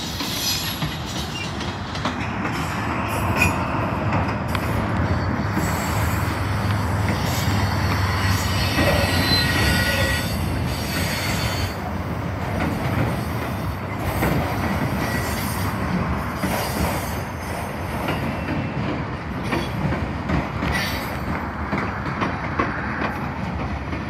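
Union Pacific freight cars rolling past close by: a steady rumble of steel wheels on rail with clicking, and thin high wheel squeals about a third of the way in and again past the middle.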